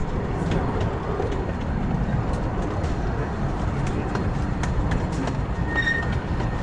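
Redwood Valley Railway's 15-inch gauge miniature steam train running on its track: a steady low rumble with irregular clicks from the wheels and rails. A brief high squeal comes about six seconds in.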